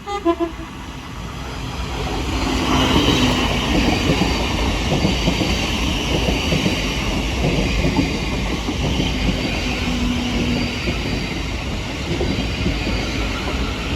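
Thameslink Class 700 electric multiple unit coming into the station at speed, its rail and running noise building over the first two seconds and then holding steady and loud.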